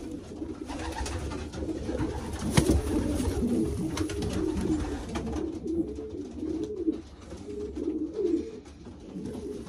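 Racing pigeons cooing in a loft, several birds at once, the calls overlapping. A few sharp knocks or clicks, the loudest about two and a half seconds in.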